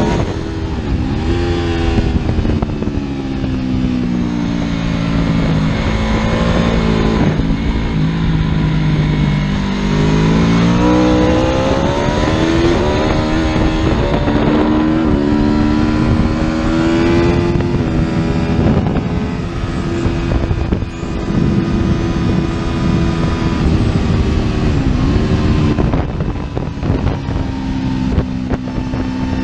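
Superbike engine running hard, its pitch climbing and falling as the revs change, with several brief sharp dips in pitch.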